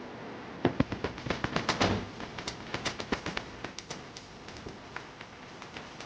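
Kitchen utensils tapping and clicking irregularly while food is prepared, busiest in the first two seconds and then sparser.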